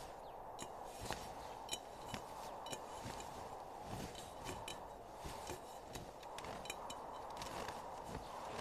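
Faint footsteps in snow: soft, irregular clicks and crunches, one to three a second, over a steady low hiss.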